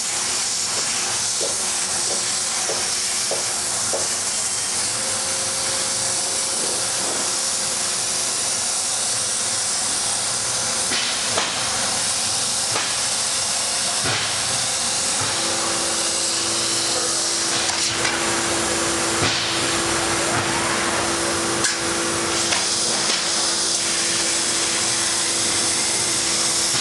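Thermal Dynamics plasma torch on a CNC plasma table cutting sheet metal: a loud, steady hiss with scattered clicks. A steady hum comes in about halfway through and holds to the end.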